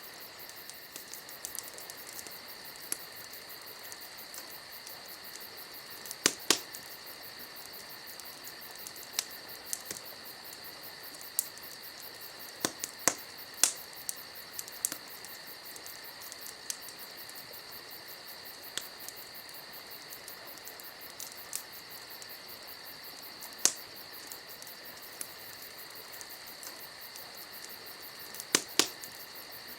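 Wood campfire crackling, with sharp pops at irregular moments, over a steady chorus of crickets chirping.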